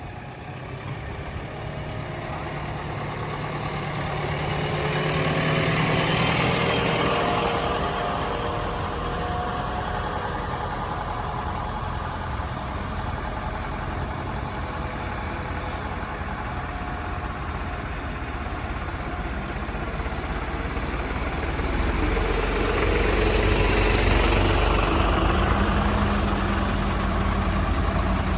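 Heavy diesel engine running, growing louder about five seconds in and again near the end.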